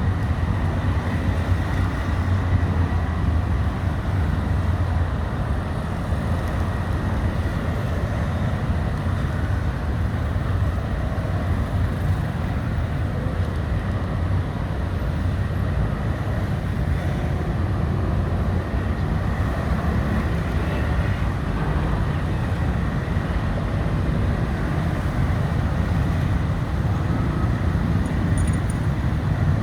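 Steady low background rumble without distinct events, of the traffic-noise kind.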